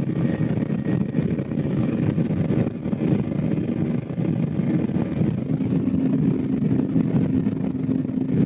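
KTM 250 Adventure's single-cylinder engine running steadily under load, pulling up a long highway climb in fifth gear. It is labouring in that gear and losing punch on the grade.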